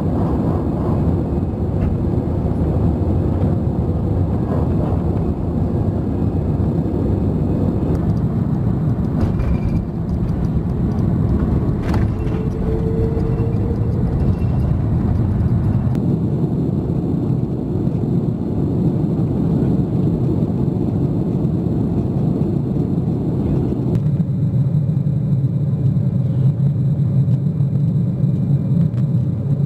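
Airliner cabin noise from a window seat over the wing: a steady rush of jet engines and airflow. It changes abruptly about 24 seconds in to a deeper steady drone as one flight's clip cuts to the next.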